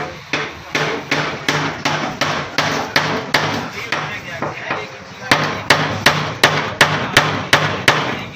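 Rapid, even hammer blows, about three a second, growing louder about five seconds in.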